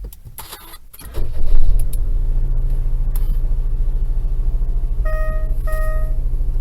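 Daihatsu Wake's three-cylinder engine starting with a few key clicks, catching about a second in and settling into a steady, pulsing idle on freshly changed spark plugs. Two short electronic beeps sound near the end.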